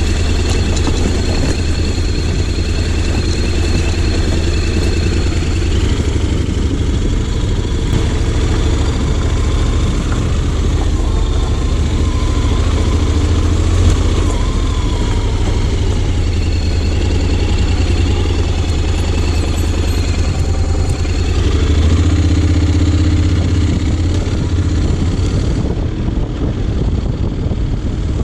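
2020 Honda X-ADV 750's parallel-twin engine running steadily with the bike under way, swelling briefly about two-thirds of the way through.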